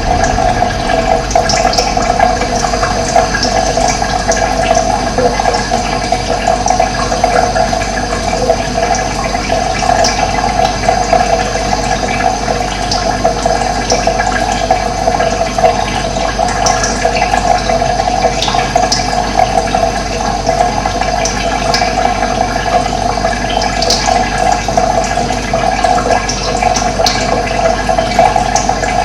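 Running water, a steady rushing flow, with scattered short bird chirps above it.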